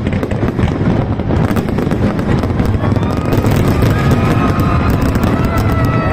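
New Year fireworks going off without a break: dense, rapid crackling pops over a continuous low rumble of bursts.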